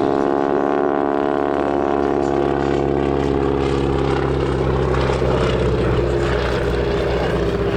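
Propeller aircraft's piston engine running as it flies past, a steady drone whose pitch falls slightly over the first couple of seconds.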